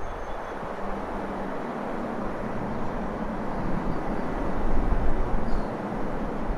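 A CSX freight train passing with a steady noise, wind gusting on the microphone at times.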